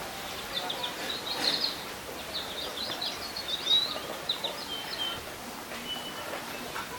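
Small bird twittering: quick runs of short, high chirps for several seconds, over steady outdoor background noise.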